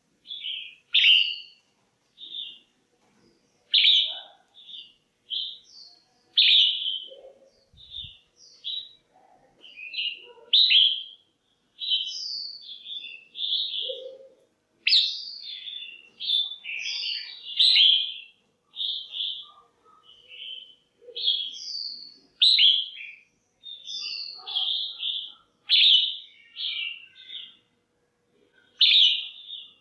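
Female red-whiskered bulbul calling: short, bright chirps and quick chattering phrases repeated over and over, with brief pauses between.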